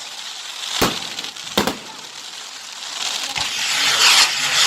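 Fireworks going off: two sharp bangs about a second and a second and a half in, over a steady hissing crackle that swells louder toward the end.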